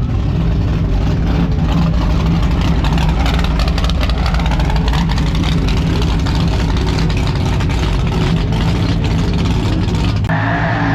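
Mega truck engines running loud and steady at close range, with a brief rise and fall in pitch around the middle. A higher hissing noise joins near the end.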